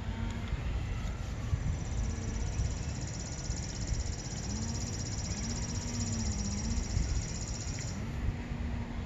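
A bird's high, rapid trill holds steady for about seven seconds, then stops suddenly, over a low rumble of wind on the microphone. A man hums a few low notes.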